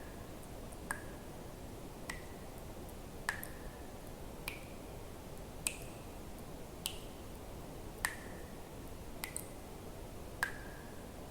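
Water drops falling into water one at a time, about one every 1.2 seconds, each a sharp click with a brief ringing plink whose pitch shifts a little from drop to drop, over a faint steady background hiss.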